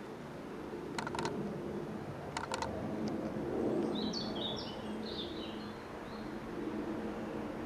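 Outdoor background with a steady low rumble, two quick sets of three sharp clicks about one and two and a half seconds in, and a small bird chirping briefly about four seconds in.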